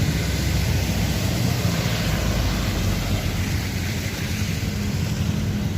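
A bus engine running steadily, with a constant hiss of rain.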